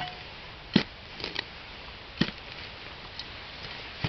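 A shovel blade digging into forest soil: several sharp chopping strokes, the two loudest about a second in and just past two seconds, with lighter ones between and near the end.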